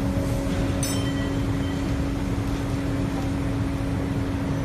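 Steady machine hum with a constant drone tone over rumbling noise, and a single sharp metallic clink about a second in.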